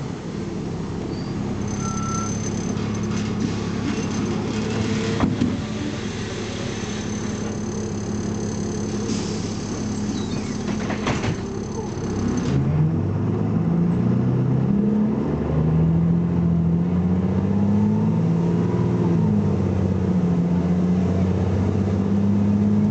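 Engine of a BMC Belde 220-SLF city bus running steadily at low revs, then about halfway through pulling away under hard acceleration, its pitch rising and falling back several times as it goes up through the gears. A few sharp knocks sound in the first half.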